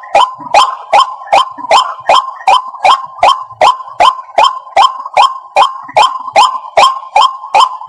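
White-breasted waterhen calling, a sharp 'kwak' note repeated evenly about two and a half times a second.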